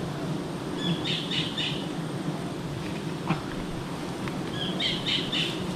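A bird calling twice, each call a quick run of about four high chirps, the two calls about four seconds apart.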